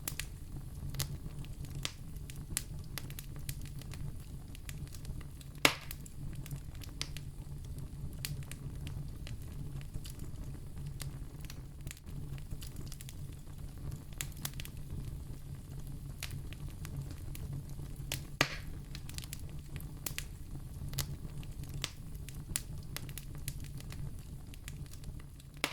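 Firewood burning with a steady low rumble and scattered crackles, with two sharper, louder pops, one about six seconds in and one about eighteen seconds in.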